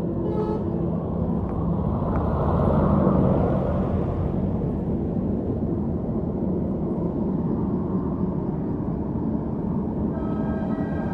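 Stock Royal Enfield Interceptor 650's 648 cc parallel-twin engine running steadily at highway speed, recorded from the rider's helmet, with road and wind noise. It grows louder for a moment around three seconds in. Brief high, horn-like tones sound near the start and again near the end.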